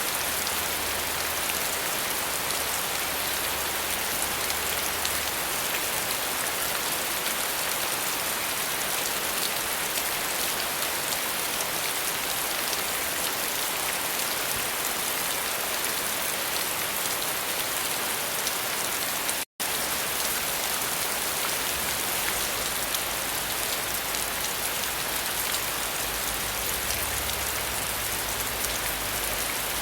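Steady rain falling, an even wash of drops with no let-up. The sound cuts out completely for an instant about two-thirds of the way through.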